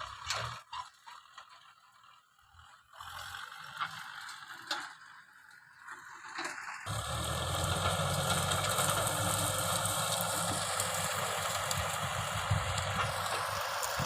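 Faint clicks and rustling, then an abrupt switch about halfway through to a Kubota M6040 diesel tractor engine running steadily.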